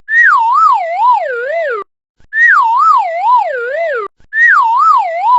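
A sound effect of a warbling tone that wobbles up and down while sliding steadily lower in pitch, played three times in a row with short gaps, each about two seconds long.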